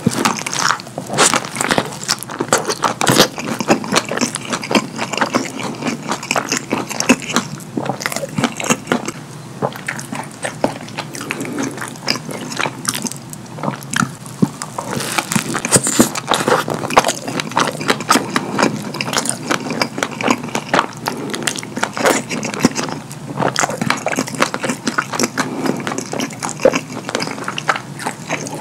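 Close-miked wet chewing and lip smacking on a cheese-sauce-drenched double cheeseburger, a dense run of sticky mouth clicks and crackles.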